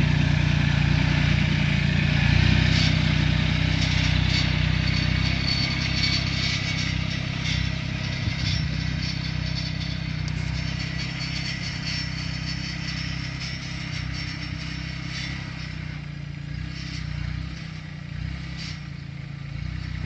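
Kubota B2530 compact tractor's three-cylinder diesel engine running steadily while working, with scattered clattering and scraping over it, gradually growing fainter.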